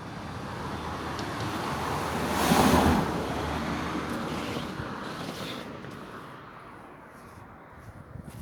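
A vehicle passing by: a rushing noise that builds to its loudest about two and a half seconds in, then slowly fades away.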